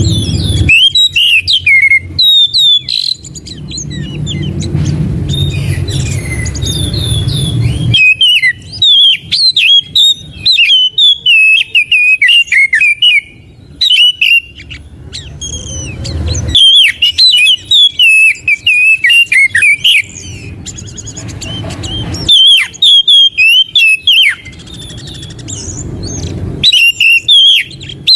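Oriental magpie-robin (kacer) singing: rapid phrases of loud whistled notes and chirps that swoop up and down, broken by short pauses. A low background rumble fills several of the gaps between phrases.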